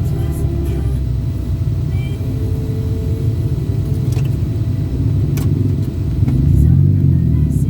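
Road vehicle running, heard from on board as a steady low rumble. A couple of sharp clicks come through the middle, and the rumble swells louder with a rising and falling drone near the end.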